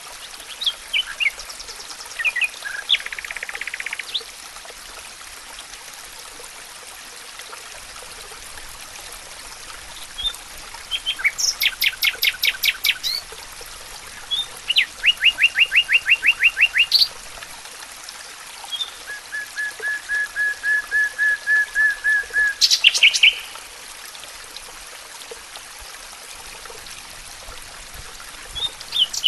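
Songbirds singing: several separate phrases of rapid repeated notes, one an even run of about a dozen notes, over a steady background hiss.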